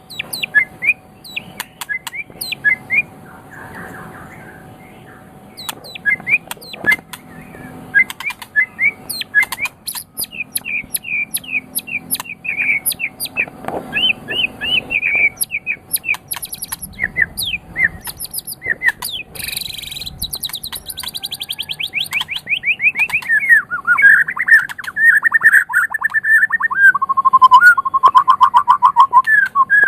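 A white-rumped shama sings a varied, continuous song of quick whistled notes and chirps. About twenty seconds in it breaks into a fast high trill, then into lower rapid trills near the end.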